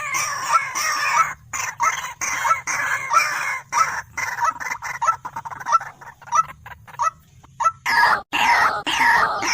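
White-breasted waterhen (dahuk) calling: a rapid series of short, harsh repeated notes, about two or three a second, growing denser and louder about eight seconds in.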